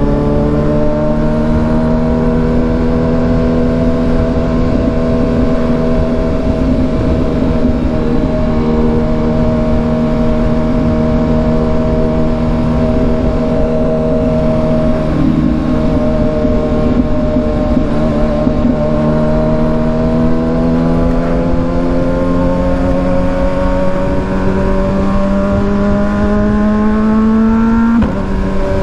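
Kawasaki Ninja 1000SX inline-four with an AR aftermarket exhaust, running under way at fairly steady revs. The engine note climbs slowly over the last ten seconds, then drops suddenly near the end as it shifts up a gear.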